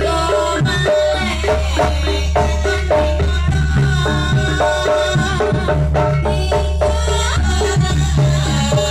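Live jaranan music from a Javanese gamelan-style ensemble: quick, mallet-struck metallophone notes with drums and rattling percussion, over a steady heavy bass.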